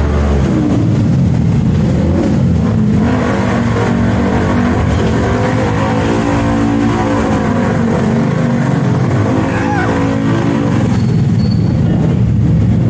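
Stunt motorcycle engine running loud and being revved up and down repeatedly, its pitch rising and falling through the whole stretch.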